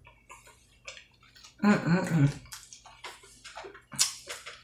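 Close-up mouth sounds of eating a taco: wet chewing and smacking in short clicks. There is a brief hummed "mm" about two seconds in, and a sharp, loud smack of fingers being licked near the end.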